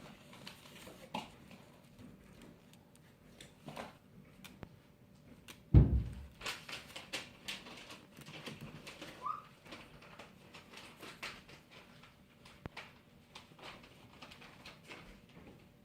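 Black-headed caique playing: scattered scuffling and clicking, one loud thump about six seconds in, and a single short rising chirp about three seconds later.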